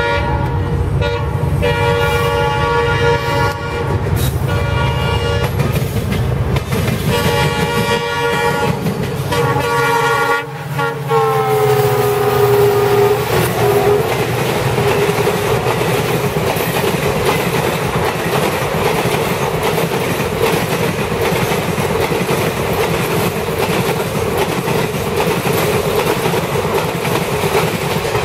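Passenger train locomotive sounding its horn in a string of short blasts as it approaches, the horn's pitch dropping as the locomotive passes. The coaches then roll by with a steady rumble and clickety-clack of wheels over rail joints.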